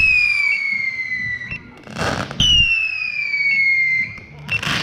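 Two firework whistles, each falling steadily in pitch for about two seconds and cut off by a loud bang, the first about two seconds in and the second near the end.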